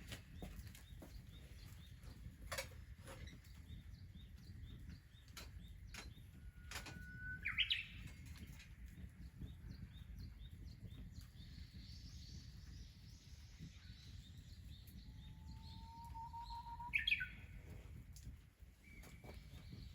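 Wild birds chirping and calling, with two louder sweeping calls about seven seconds in and again near the end, over a low steady rumble and a few faint clicks.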